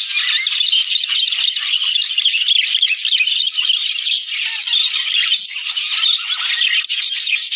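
A flock of budgerigars chattering and warbling: many fast, overlapping chirps and squeaks without a break.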